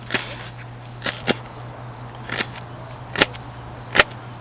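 Knife chopping vegetables on a cutting board: sharp single chops at uneven intervals, about one a second, six in all.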